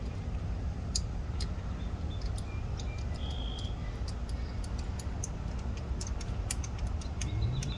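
Scattered light clicks and ticks of hands working the coil-pack bolts into the engine, irregular and without a steady rhythm, over a steady low outdoor rumble. A short high chirp, like a bird, sounds about three seconds in.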